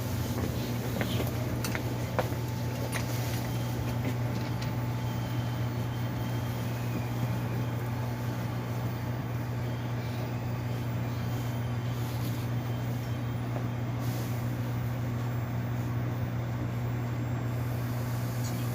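Interior of a Seoul Metropolitan Subway Line 1 train: a steady low hum from the train with an even background hiss, and a few light clicks and rattles in the first few seconds.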